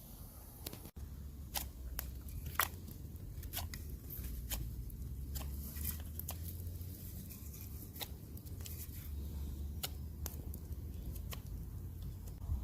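Knife carving green wood: irregular short cutting and shaving strokes as the blade bites and slices off chips, one or two a second.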